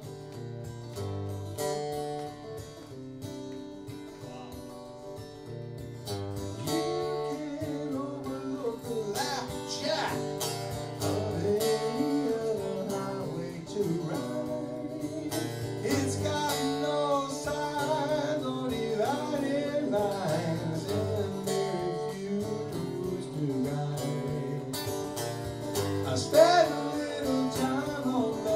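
Live guitar music: an instrumental passage of chords with a melodic lead line bending over them, growing louder about six seconds in.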